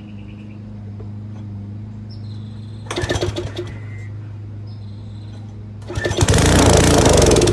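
The small gasoline engine of an old Titan Industrial pressure washer is cranked twice, a short attempt and then a longer, louder one. On the second attempt it fires briefly in a rapid, uneven sputter, the first sign of life after 30+ years sitting.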